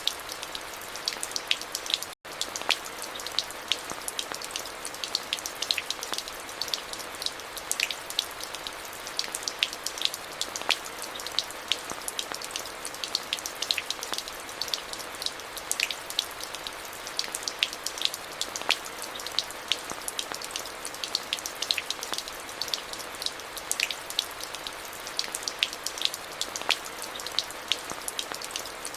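Steady rain falling, with many individual drops ticking sharply over an even hiss. The sound cuts out completely for an instant about two seconds in.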